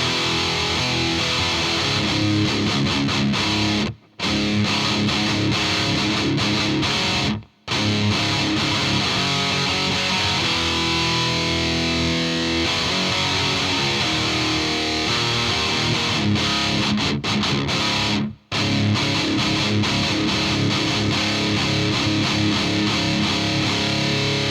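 Distorted electric guitar played through a UAD Volt 276 interface's 76 compressor in vintage mode, the sound cutting out abruptly three times and breaking up in clusters of tiny gaps: the popping artifacts that the uploader blames on the compressor's vintage mode.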